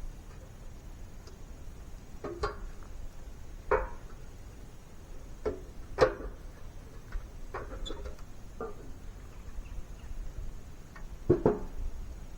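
A series of irregular knocks and clatters, about eight in all, the sharpest about six seconds in and a quick pair near the end, over a low steady rumble.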